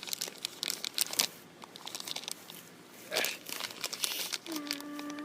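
A bag of bird seed crinkling and rustling in the hands as it is fumbled with, in an attempt to get it open. Near the end a short steady hum sounds for about a second.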